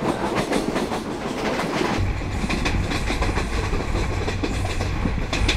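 Passenger train running, its wheels clattering over the rails. About two seconds in, a deep, steady rumble sets in as the sound shifts to the outside of the moving coach.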